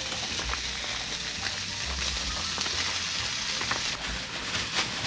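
Food sizzling and frying in a hot pan, a steady hiss with small pops that eases about four seconds in.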